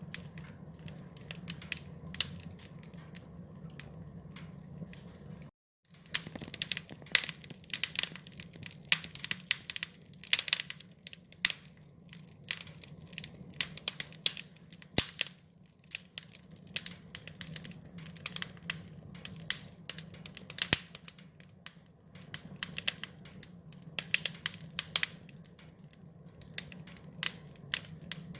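Wood fire crackling, with frequent irregular sharp pops over a steady low hum. The sound cuts out completely for a moment about six seconds in.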